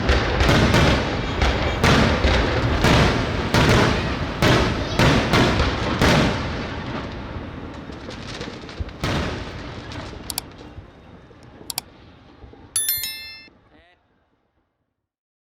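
Aerial fireworks bursting in rapid, loud succession, then thinning to a last bang about nine seconds in and fading away. A short, high pitched tone comes near the end, and then the sound cuts off.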